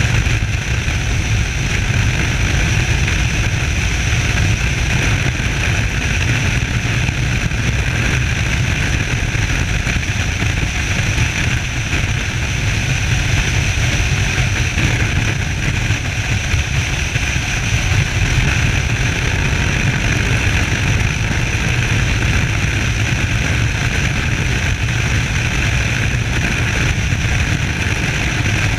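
Suzuki SV650S motorcycle under way at a steady pace, its V-twin engine running under heavy wind rush on a chest-mounted action camera. The sound holds steady with no revving or gear changes.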